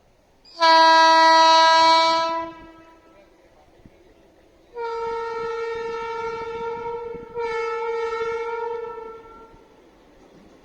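Electric freight locomotive horns, Indian Railways WAG-7 and WAG-12, sounding in turn: one long, lower blast of about two seconds, then a few seconds later a higher-pitched horn sounding twice back to back.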